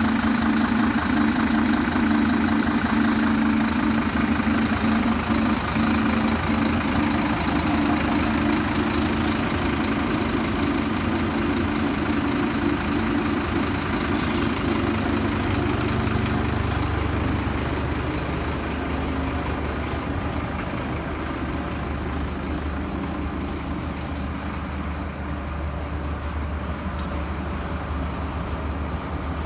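Scania P230 truck's diesel engine running steadily. About halfway through, its sound turns deeper and a little quieter, as if settling back toward idle.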